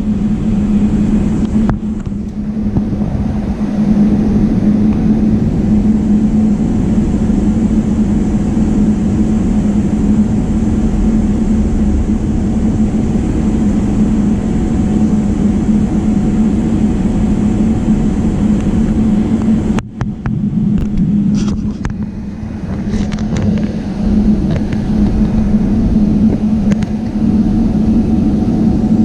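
Jet airliner's engines running steadily, heard from inside the passenger cabin as a loud, even rumble with a low hum. The sound dips briefly about twenty seconds in, followed by a few short clicks.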